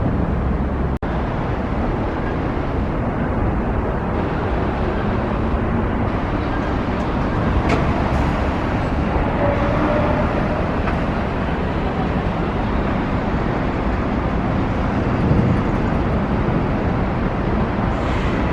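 Steady road traffic noise of vehicles running on a city street, with a brief cut in the sound about a second in.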